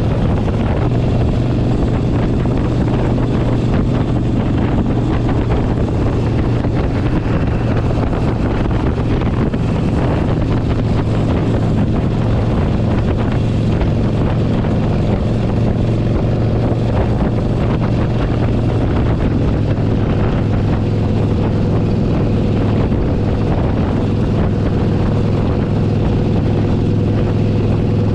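Harley-Davidson Sportster 1200's air-cooled V-twin running steadily at cruising speed, with wind buffeting the helmet or bike-mounted microphone. The engine's low drone holds an even pitch, dropping slightly about two-thirds of the way through.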